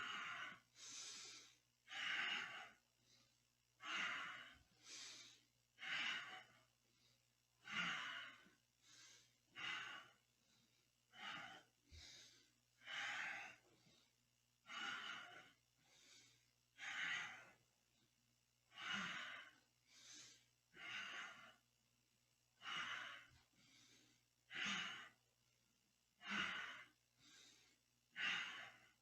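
A person breathing audibly in a steady rhythm, a stronger breath followed by a softer one about every two seconds, while rocking back and forth on the spine with the knees hugged to the chest.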